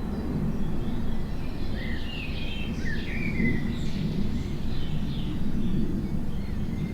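Forest songbirds chirping and singing in short twittering phrases, busiest in the first half, over a steady low rumble.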